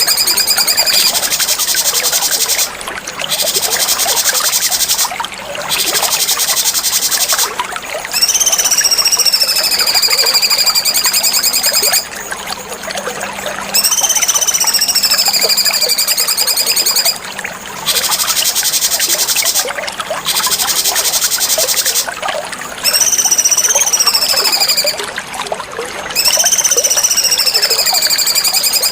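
Cucak cungkok songbird singing repeated phrases with short pauses between them. Fast, buzzy, high trills alternate with clear whistled notes that rise and then slide down. A steady hiss like trickling water runs underneath.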